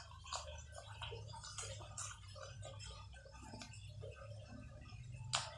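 Raw cucumber slices being crunched and chewed: irregular crisp clicks, with one sharper, louder click near the end. A steady low hum runs underneath.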